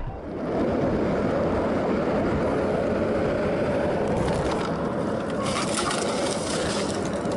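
Steady road noise of a moving car, with stretches of louder hiss about four seconds in and again from about five and a half seconds.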